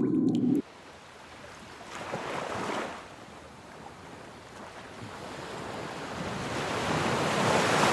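Sea waves washing in: a short swell about two seconds in, then a longer one building slowly toward the end. A low hum at the very start cuts off suddenly within the first second.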